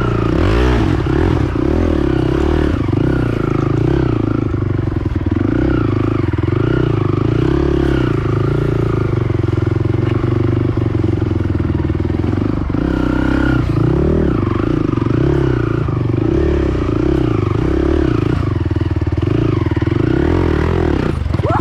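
Honda TRX450R quad's single-cylinder four-stroke engine running under load off-road, its revs rising and falling over and over, with a sharp rev up near the end.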